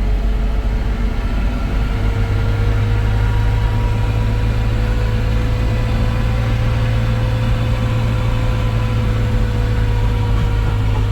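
A motor vehicle's engine running steadily, with a deep hum and a faint whine that drifts slightly up and then down in pitch.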